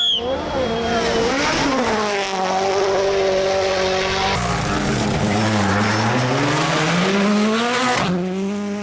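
Rally car engine at full throttle. Its pitch drops and then climbs again with braking and acceleration, over a hiss of tyre and road noise. About eight seconds in the sound cuts abruptly to a different engine note.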